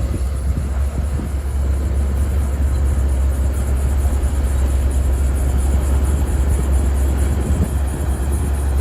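Heavy earth-moving machine's diesel engine running steadily with a deep, low drone.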